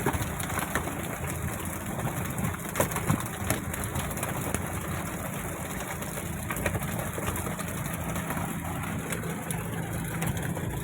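Fishing boat's engine running steadily with a low hum, with scattered short knocks and thumps over it.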